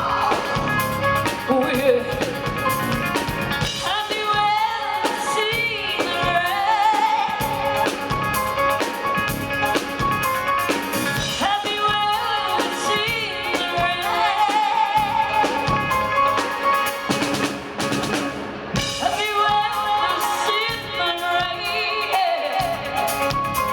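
A live rock band playing a rock song, with a woman singing over drums and instruments.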